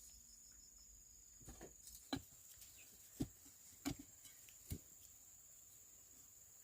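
A faint steady high hiss with four short, sharp knocks spaced about a second apart through the middle.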